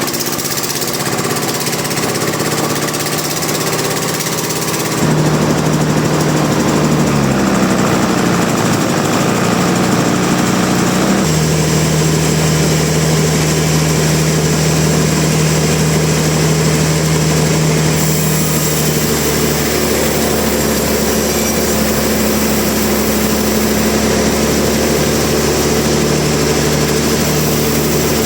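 Engine-driven sawmill machinery running steadily, with a droning engine hum that changes pitch and character abruptly about five, eleven and eighteen seconds in.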